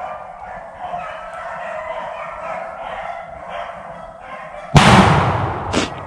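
Pack of beagles baying as they run a rabbit. About five seconds in comes a single loud shotgun blast that fades over about a second, followed by a sharp crack a second later.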